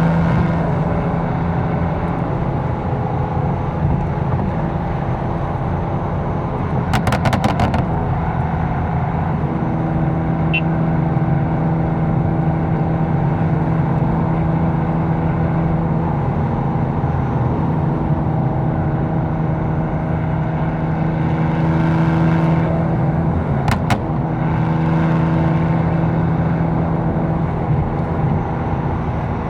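A tuned BMW M4's twin-turbo inline-six running at a steady cruising speed, a steady engine drone over road noise, with a few brief clicks about seven seconds in and again near the end.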